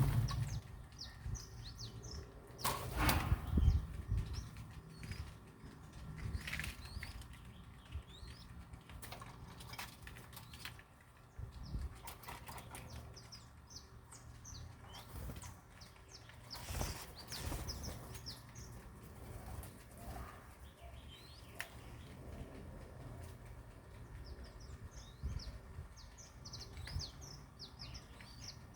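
Small birds chirping with many short, high calls, and bursts of wings flapping about three seconds in and again midway.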